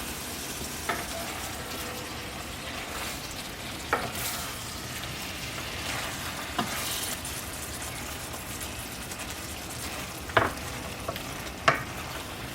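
Butter-and-wine pan sauce sizzling steadily in a hot pan, with a handful of short clicks and scrapes from a utensil stirring it.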